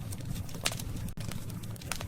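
Wood campfire burning: scattered crackles with two sharp pops, one about two-thirds of a second in and one near the end, over a steady low rumble of the fire.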